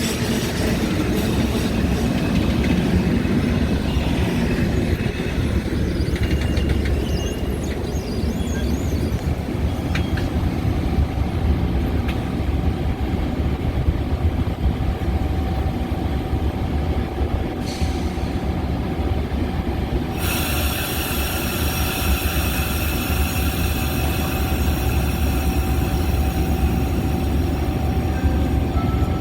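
Metra commuter train running on the rails: a steady low rumble, with a thin high squeal of the wheels joining about two-thirds of the way through.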